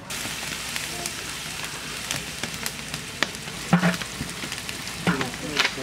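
Onions and spices frying in hot oil in a large aluminium cooking pot, a steady sizzle with scattered sharp crackles and a few knocks of a metal ladle against the pot.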